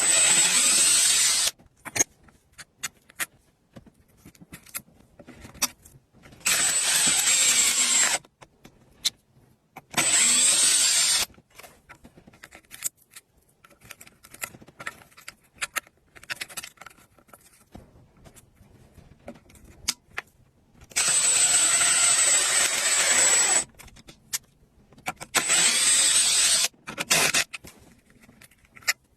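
A power tool running in five short bursts of about one to three seconds each, with a high whine, and small clicks and knocks of handling in the pauses between.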